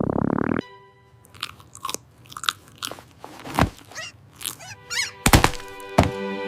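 Crunching and chewing sound effects: scattered short crunches and swishes after a loud buzz cuts off about half a second in. About five seconds in, a steady ominous music chord begins, with two heavy hits.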